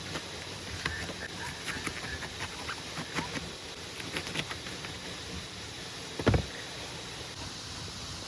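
Steady hiss of heavy rain with scattered light clicks and knocks, and one heavy thump about six seconds in.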